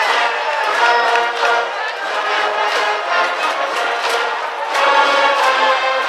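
High school brass band playing a baseball cheering tune: trumpets and trombones in full chords over a steady percussion beat, easing a little in the middle and swelling back near the end.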